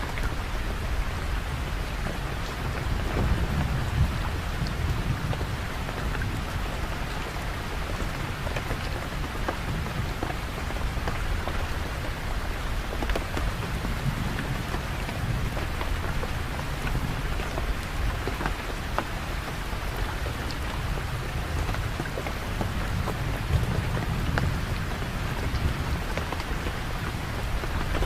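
Steady rain falling, an even hiss of drops, with low thunder rumbling underneath that swells a few times: about three seconds in, around the middle, and again near the end.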